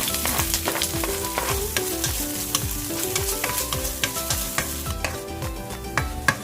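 Food sizzling in a hot pan while being stirred, with frequent clicks of a utensil against the pan. Background music with a steady beat plays underneath.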